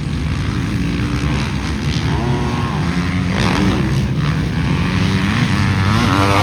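Several motocross bikes racing on the track, their engines revving up and down through gear changes. The sound gets loudest near the end as bikes come close.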